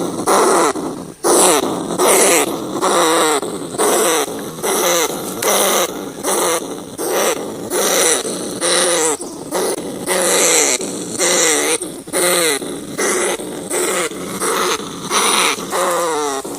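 Rat calls repeated about once a second, each a short cry whose pitch wavers.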